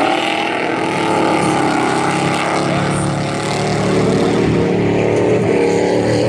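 Race trucks' engines running hard around a dirt oval, several engine notes overlapping and rising and falling slightly as they lap.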